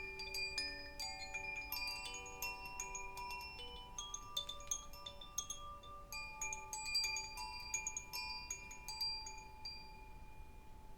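Metal chimes ringing: many clear notes at several pitches struck in quick clusters, each note ringing on and overlapping the others.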